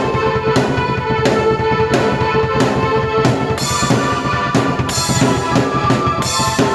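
Drum kit and keyboard played together: a steady drum beat with bass drum, snare and cymbal strikes over held keyboard chords.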